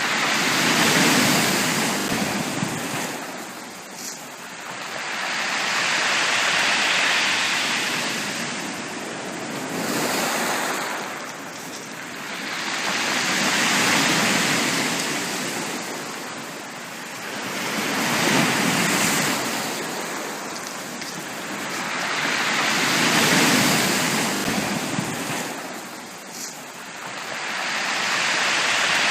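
Sea waves breaking and washing up on a beach, the surf swelling and fading in a slow, regular rhythm, one wave every four to six seconds.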